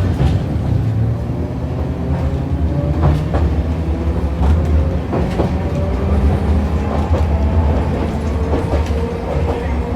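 Hiroshima Electric Railway 650-type tram heard from inside the car as it pulls away and gathers speed: a steady low running rumble with a motor whine rising slowly in pitch, and a few sharp knocks of the wheels over rail joints.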